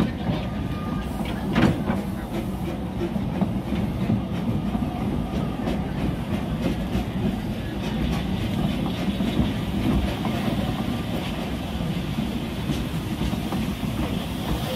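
Narrow-gauge railway carriages rolling slowly on the rails, with a steady rumble of wheels on track and a few sharp clicks from the wheels near the start.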